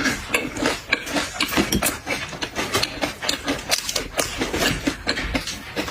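Crunching and chewing of a fried skewer, close to the microphone: many quick, irregular crunches.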